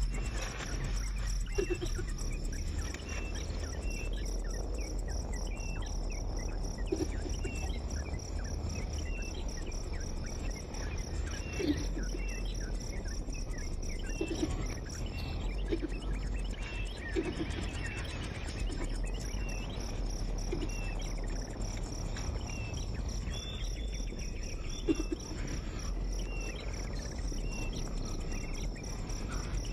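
Insects, likely crickets, chirping in short notes about once a second over a steady high insect drone, with a few low short calls scattered through.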